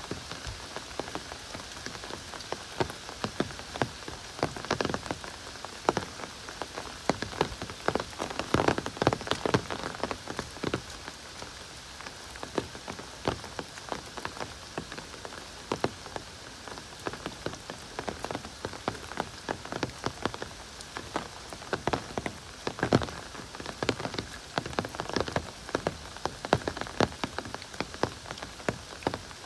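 Heavy rain falling, a steady hiss with many close drops spattering irregularly.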